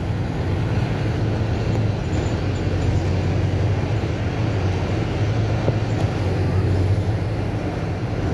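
Mercedes-Benz OF-1721 BlueTec 5 bus's front-mounted diesel engine running steadily, with an even low hum and no change in engine speed.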